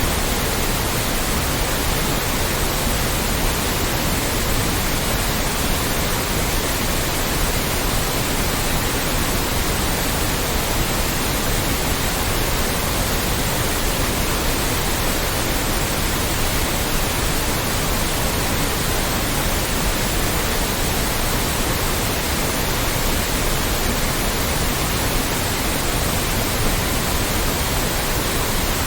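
Loud, steady white noise: an even, unchanging hiss spread across all pitches, with no rhythm or events in it.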